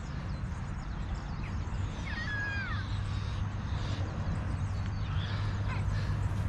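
Birds calling with short, swooping chirps, the clearest a pair about two to three seconds in, over a steady low rumble.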